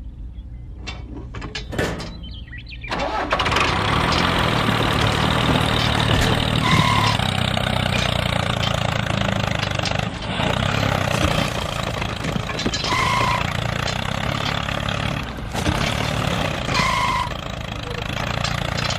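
An engine starts up about three seconds in and then runs steadily. Short high beeps sound every few seconds over it.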